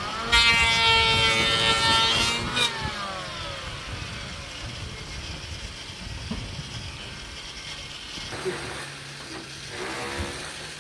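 A motor speeds up just after the start, runs loudly for about two seconds, then winds down, leaving a lower steady mechanical background.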